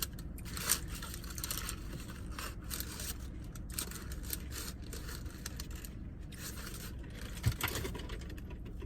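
Eating and food-handling noises: irregular crinkles, scrapes and clicks from food and its packaging, over a steady low hum of the car cabin, with one sharper knock about seven and a half seconds in.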